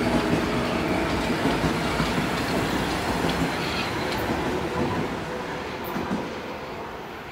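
Metro-North electric multiple-unit commuter train passing, with the steady rumble of its wheels on the rails, growing fainter over the last couple of seconds.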